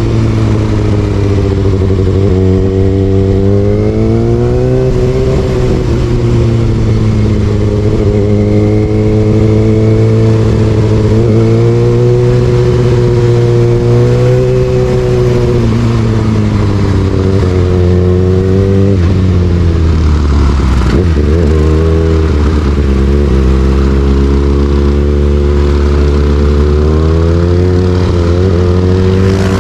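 Kawasaki ZX6R's inline-four engine with an Austin Racing exhaust, ridden hard: the pitch climbs and falls again and again as the throttle opens and closes through the gears. The pitch drops deeply about twenty seconds in before picking up again.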